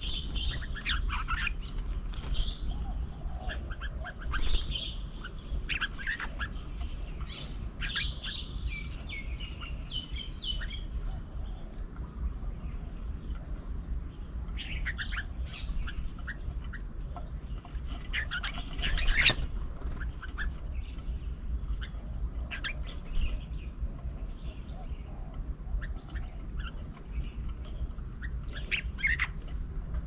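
Small birds chirping in short, high calls that come in scattered clusters, thickest in the first third and again about two-thirds of the way in, over a steady low outdoor rumble.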